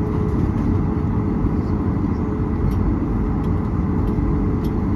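Steady airliner cabin noise in flight: a constant low rumble of engine and airflow noise with a faint steady hum, unchanging throughout.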